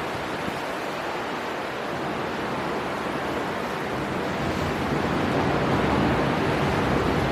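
Storm wind with the rush of surf, a steady roar of noise that slowly builds in strength.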